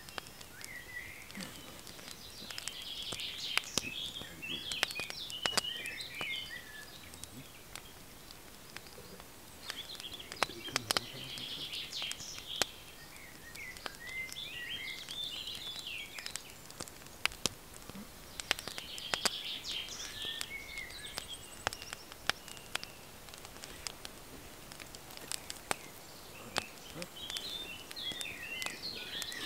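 A songbird sings short warbling phrases about every eight seconds, four times, over a faint outdoor hiss. Scattered sharp clicks and ticks come in between.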